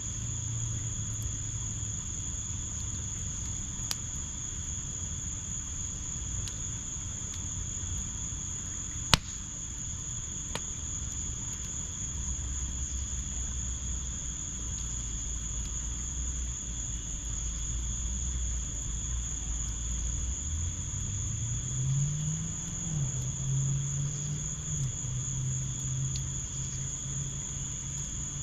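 Crickets chirring in a steady high unbroken trill, with a few sharp pops from the wood fire pit, the loudest about nine seconds in. A low droning hum runs underneath and rises in pitch about two-thirds of the way through.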